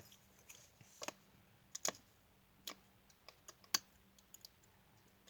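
Faint, scattered clicks and light taps of a paper die cut being handled and pushed out of its metal cutting die. The loudest click comes just before the four-second mark.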